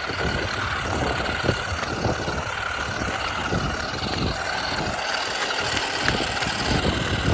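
Electric motor of a toy remote-control car whining steadily as it drives, over gusty wind rumble on the microphone.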